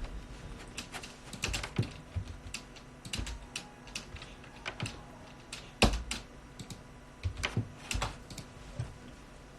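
Typing on a computer keyboard: irregular key clicks at an uneven pace, some with a dull low thump, pausing briefly near the end.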